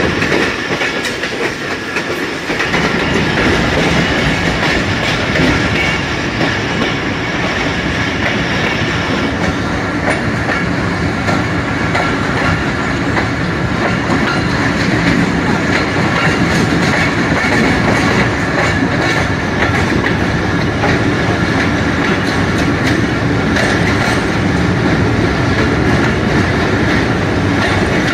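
Passenger train running along the rails, heard from a carriage window, with its wheels clicking over the rail joints as it rolls into a station.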